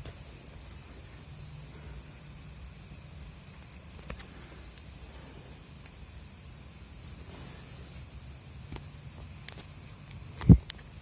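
Crickets chirping at night in a steady, high, pulsing trill. A single brief low thump near the end.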